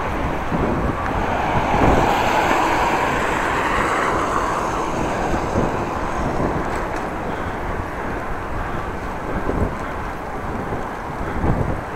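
Wind buffeting the microphone while riding a bicycle, a steady rumbling rush, with a louder swell about two seconds in that fades by about five seconds.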